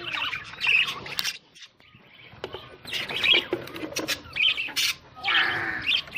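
Budgerigars chirping and chattering in short bursts, with a brief lull about a second and a half in and a couple of sharp clicks.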